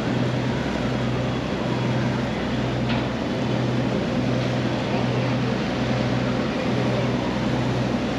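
Passenger ferry's engine running steadily underway, a low droning hum that pulses about once a second, over a wash of water and wind noise.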